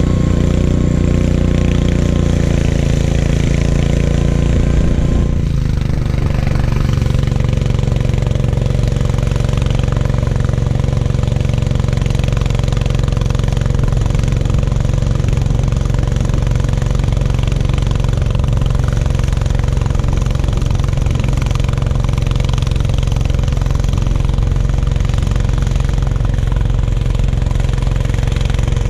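Gravely 430 walk-behind tractor's engine running steadily with the snowblower attached, its note shifting about five seconds in.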